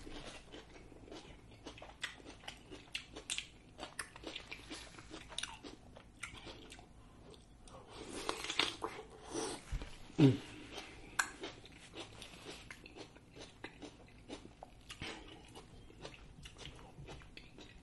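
Close-miked mukbang eating: a piece of grilled vegetable dipped in butter sauce being bitten, crunched and chewed, with many small wet mouth clicks. The crunching comes in a louder burst about eight to nine seconds in, followed by a brief low 'mm' near ten seconds.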